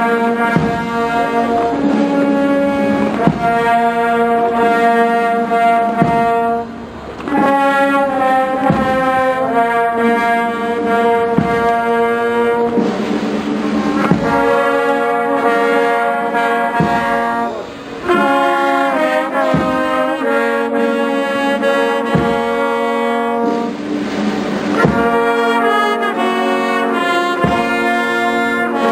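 Military brass band playing a slow march: held brass chords with trombones and trumpets over a steady drum beat about every second and a quarter.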